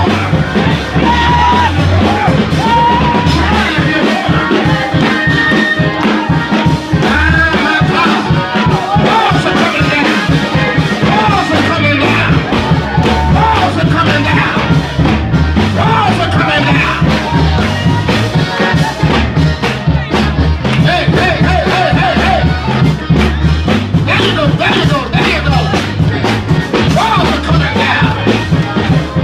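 Loud, fast church band music with a heavy bass and driving drums, and voices singing and shouting over it.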